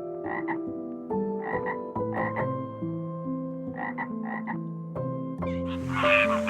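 A frog croaking in short calls, mostly in quick pairs, about five pairs in all, over background music of slow held notes. Near the end a louder, noisier burst of sound sets in.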